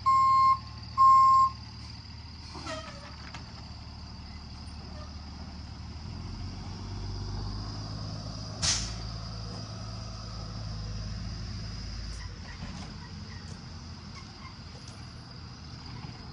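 26ft box truck's reversing beeper sounding twice in the first second and a half, then stopping, over the truck's engine running. The engine swells for several seconds in the middle, and a single short, sharp hiss comes about halfway through.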